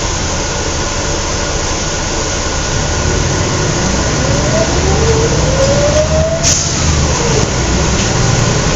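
Scania L113CRL bus's rear-mounted 11-litre six-cylinder diesel heard from inside the cabin, pulling under load. It grows louder about three seconds in, with a faint rising whine from about four seconds in.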